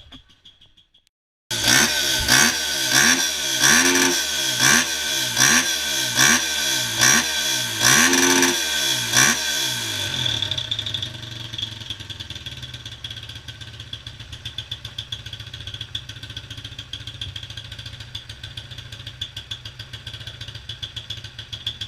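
Motorcycle engine revved in quick repeated throttle blips for about eight seconds, then settling to a steady idle. It starts suddenly after a moment of silence.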